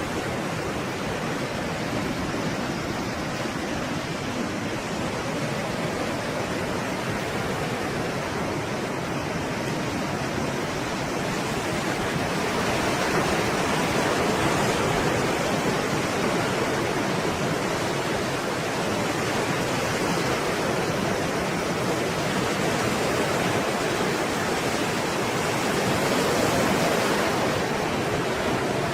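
Stormy sea waves breaking and washing onto shore in a continuous rushing noise, swelling louder twice, about midway and near the end.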